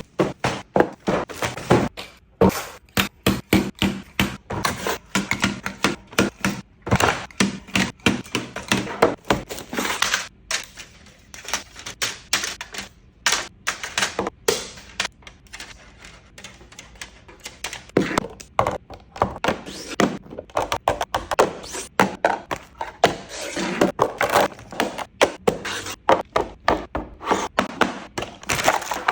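Groceries and containers being set down and arranged on refrigerator shelves and in bins: a fast, continuing run of clunks, taps and knocks, several a second, with a few short rustling stretches.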